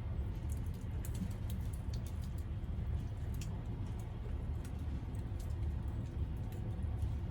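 Wood campfire crackling in a folding fire pit, with many short, irregular sharp pops and ticks over a low, steady rumble.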